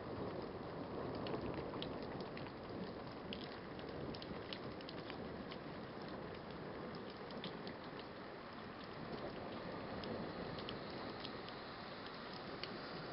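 Steady rain falling in a night thunderstorm, with many irregular sharp taps of drops striking a nearby surface.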